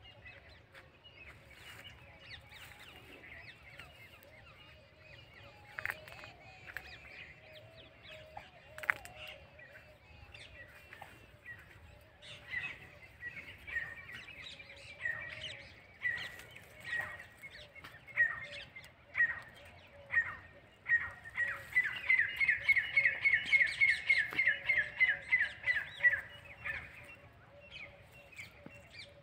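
Birds calling: scattered chirps, then one bird repeats a short high note about once a second and breaks into a fast, loud run of rapid notes for about five seconds in the last third.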